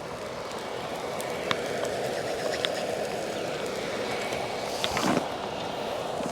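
Butter and herbs sizzling steadily in a pan over an open flame, with a few sharp crackles and a slightly louder stretch about five seconds in.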